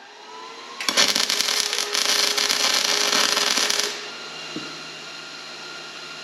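Electric arc welding a bead on a skid steer's steel attachment mount: a loud, steady crackling hiss that starts about a second in and stops about three seconds later. A lower, steady hum follows.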